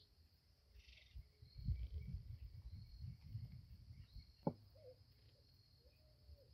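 Faint outdoor ambience of insects chirring steadily with scattered bird calls. Low rumbling bumps come through in the first half, and a single sharp knock lands about four and a half seconds in.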